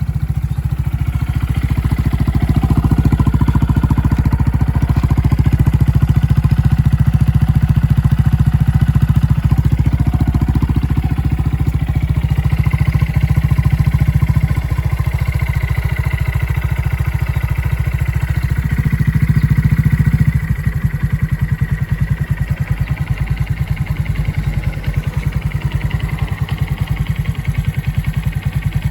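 Honda Monkey 125's single-cylinder engine running with a steady, even exhaust beat; about two-thirds of the way in it drops lower and the individual pulses become more distinct, as the engine slows.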